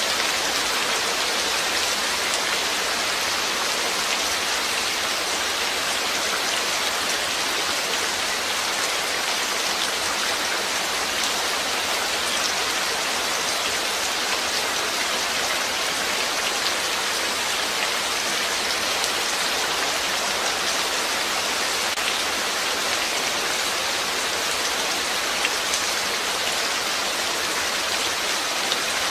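Steady rain falling and pattering on surfaces, an even hiss of many small drops with no let-up.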